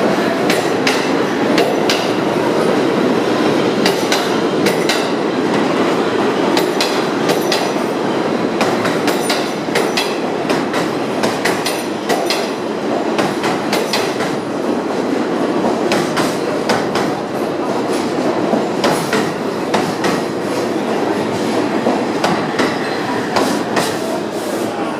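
R46 subway train entering the station: a steady rumble of wheels on rails, broken by many sharp clacks as the wheels pass over rail joints, easing slightly in loudness as it slows.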